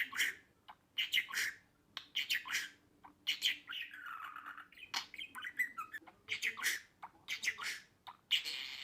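Budgerigar chirping and chattering: a run of short, squawky chirps about once a second, with a longer warbling stretch a little before the middle.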